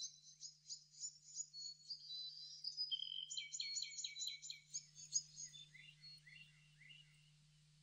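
Birds chirping in quick runs of repeated high notes. Near the end come a few lower, falling notes, and then the chirping stops about seven seconds in.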